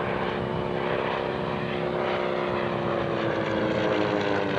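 Propeller-driven light aircraft's engine droning as it passes, its pitch slowly falling.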